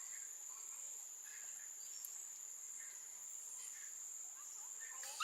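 Steady high-pitched drone of insects, with faint scattered chirps.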